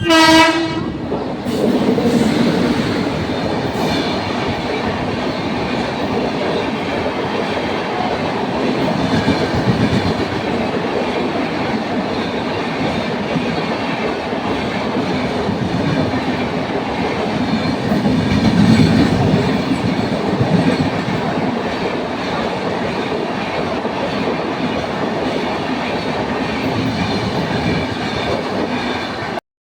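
Express train passing through a station at speed without stopping. A short horn blast sounds at the start, then the loud, steady noise of the train running over the rails, which cuts off abruptly near the end.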